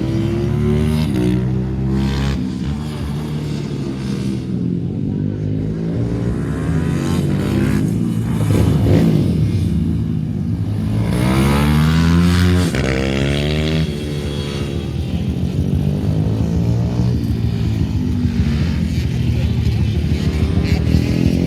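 Ohvale 160 minimoto single-cylinder four-stroke engines revving hard on track, their pitch rising and falling repeatedly as they accelerate and shift, with more than one bike's engine heard at once.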